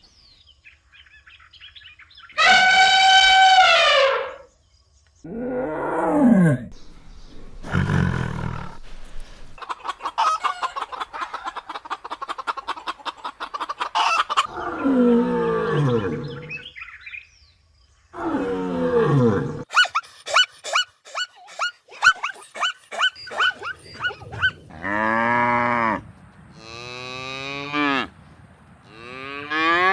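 A series of different animal calls, one after another, with short gaps between them. Some are long pitched calls and others are rapid pulsed calling.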